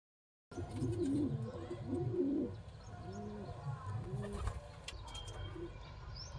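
Pigeon cooing: a run of low, rounded coos starting about half a second in, loudest over the first two seconds, then softer single coos. A few faint high chirps are heard near the end.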